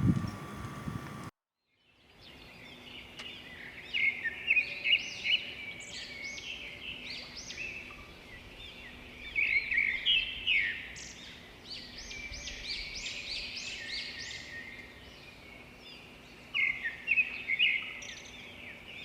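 Many birds chirping and singing together, a busy chorus of short rising and falling notes that starts about two seconds in, swells in bursts, and stops shortly before the end.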